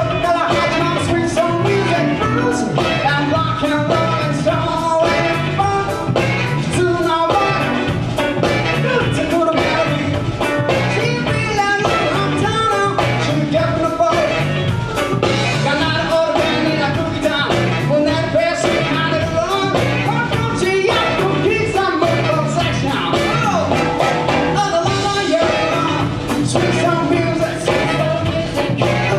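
Live band playing a song with singing over a steady drum beat.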